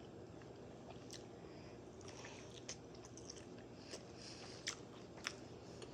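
Close-up mouth sounds of someone chewing a sausage-and-pepper sandwich, with scattered wet clicks and smacks.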